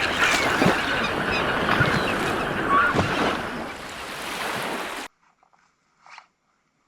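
Wind rushing over the microphone and water, with a few short rising-and-falling calls, cutting off abruptly about five seconds in.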